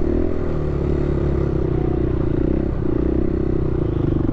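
Dirt bike engine running at a steady, low speed, with a brief dip and a slight change in pitch a little under three seconds in.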